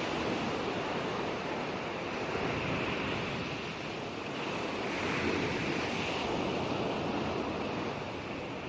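Ocean waves breaking and washing on a shore, a steady hiss of surf that swells and eases slowly.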